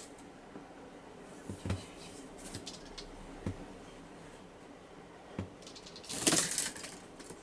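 A few light taps, then a brief flurry of small wing flaps about six seconds in: a white wagtail recovering from a broken wing making a short flight.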